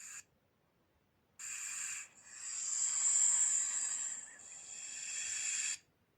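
Snake hissing: a brief hiss at the very start, then a longer hiss from about a second and a half in until near the end, swelling in the middle.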